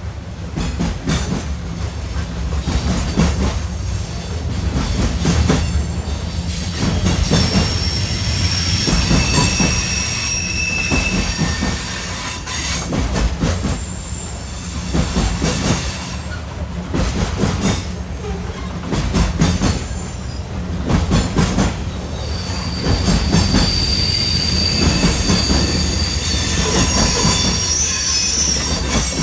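Freight train rolling past, wheels rumbling and clicking over the rail joints, with high-pitched wheel squeal rising twice, about a third of the way in and again near the end.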